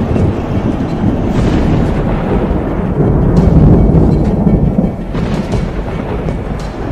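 Deep thunder-like rumbling that swells to its loudest about halfway through, under dramatic background music.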